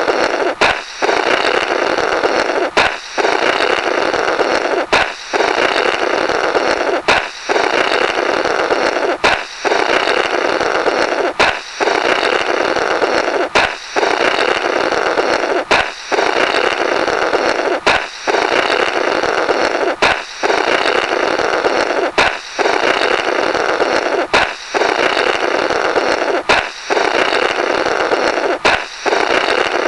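Comedy "blorrrt" balloon sound effect looped: a sharp balloon pop, then about two seconds of rasping, sputtering blowing through the burst balloon's remnants, repeating about every two seconds, some fourteen times.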